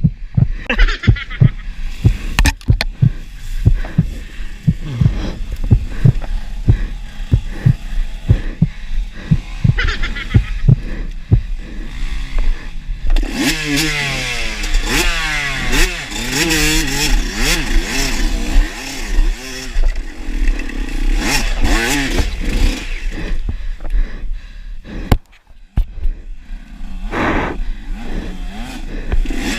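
Dirt bike engine being ridden over a rough trail, its pitch rising and falling as the throttle opens and closes. Many dull thumps and knocks come through in the first half.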